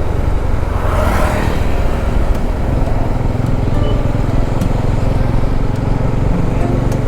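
Motorcycle riding along a road: a steady engine drone mixed with wind rush on the microphone. A brief rushing swell comes about a second in.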